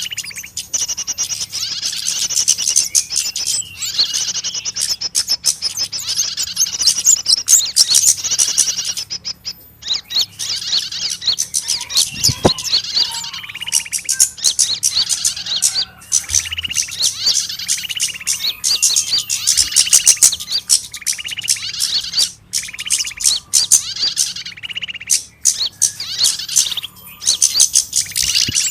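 Many small birds calling at once: a dense, rapid stream of high chirps and twitters, with repeated lower notes joining from about halfway through. This is a bird-lure recording meant to imitate small birds in distress around a trapped bird.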